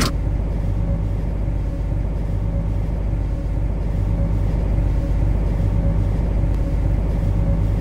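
Steady low rumble and hum of a metro train heard from the driving cab, with a faint steady tone over the rumble.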